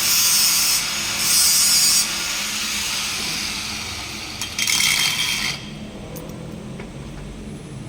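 Short strokes of harsh, hissy scraping noise, two in the first two seconds and another about four and a half seconds in, after which the noise drops away.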